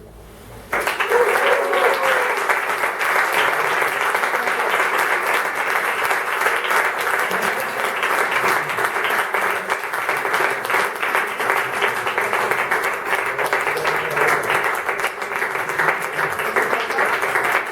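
The last guitar chord rings out, then audience applause breaks out about a second in and continues steadily, a dense clatter of many hands clapping.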